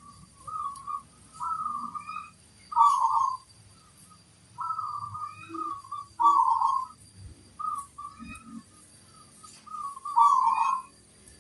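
Zebra dove (perkutut) cooing: repeated phrases of short, soft coos, each ending in a louder 'kung' note about 3, 6 and 10 seconds in.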